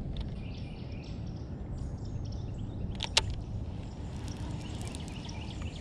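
Outdoor ambience with a steady low rumble, faint bird calls and a single sharp click about three seconds in.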